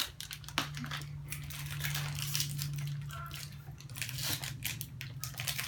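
Plastic snack packets crinkling and tearing as they are handled and opened, in irregular crackles, over a steady low hum.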